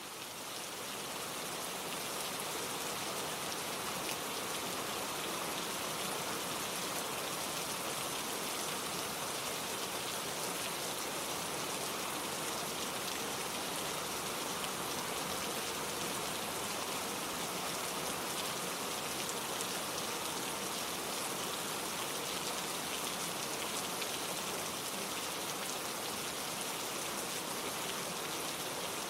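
Steady, gentle rain falling, with no thunder. It fades in over the first couple of seconds, then holds steady.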